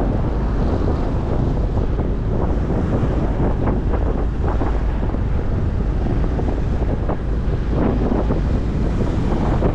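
Wind buffeting the microphone of a moving motorcycle, a loud steady low rumble over the bike's engine and road noise.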